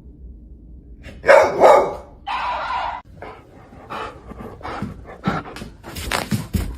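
A dog barking loudly a little after a second in, with a second shorter bark-like call just after, followed by scattered knocks and rustling.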